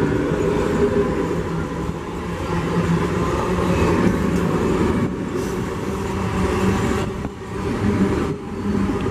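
South Eastern Railway electric multiple unit (EMU) local train running past close by, its coaches and wheels on the rails making a steady, loud rumble with a low steady hum underneath. The sound eases slightly near the end.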